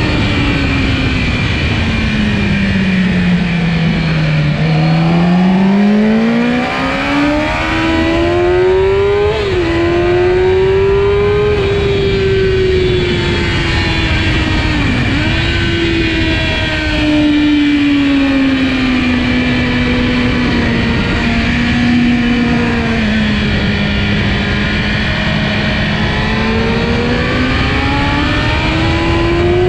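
Kawasaki ZX-10R's inline-four engine at racing revs. The pitch falls for the first four seconds, then climbs with brief dips at gear changes, drifts down again through the middle and rises near the end.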